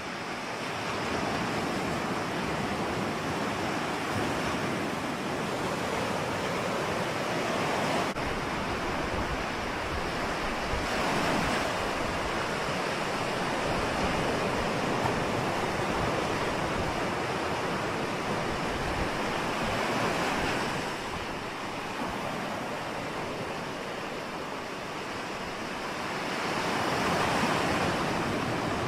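Ocean surf: a continuous rush of waves breaking and washing in, swelling and easing over several seconds at a time.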